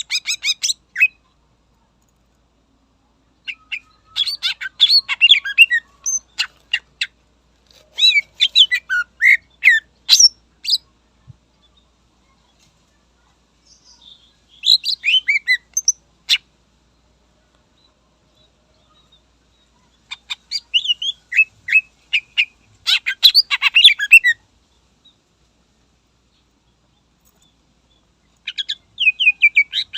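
Green leafbird (cucak ijo) singing in bursts of fast, chattering phrases of rapid high notes. There are about six phrases in all, each one to four seconds long, with silent gaps between them.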